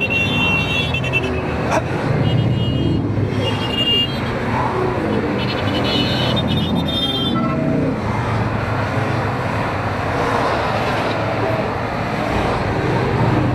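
A column of motorcycles riding past, their engines making a steady, dense mix of engine and road noise. Several short high-pitched tones sound over it in the first half.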